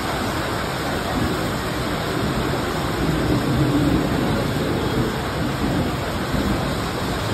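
A Mumbai suburban electric local train running along the platform and pulling away, over the steady hiss of heavy rain; the train's noise swells about three to four seconds in.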